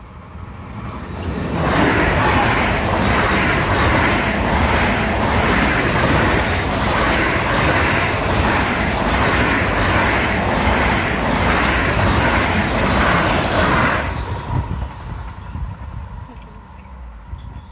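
A train passing close by at speed: its noise builds over about two seconds, holds loud for some twelve seconds with a regular rhythmic beat, then fades away.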